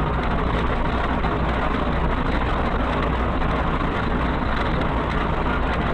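A car driving, with steady engine and road noise and a strong low hum.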